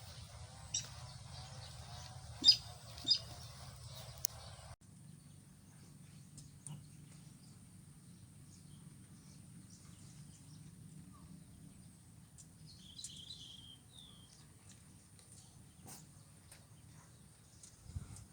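Faint outdoor field ambience with a few sharp clicks in the first seconds. After an abrupt cut it turns quieter, with a short burst of bird chirps about thirteen seconds in.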